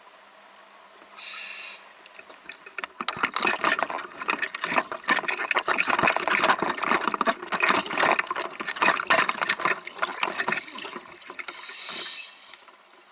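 Water splashing and rushing: a dense, loud run of splashes for several seconds, fading near the end.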